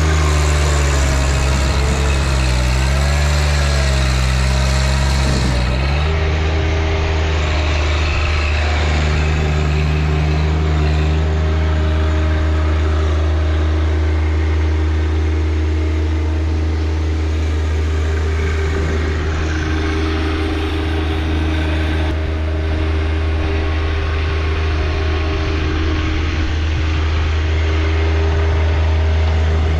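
John Deere 1025R compact tractor's three-cylinder diesel engine running steadily while working the backhoe. Its pitch wavers in the first few seconds, then holds steady.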